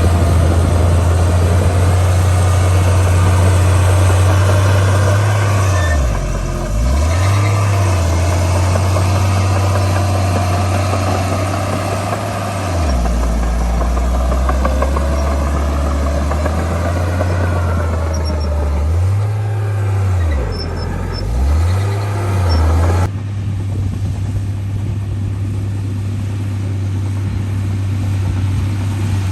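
Heavy diesel engine of earthmoving machinery running, its engine speed dipping and recovering several times as it works under load. The sound changes abruptly about 23 seconds in.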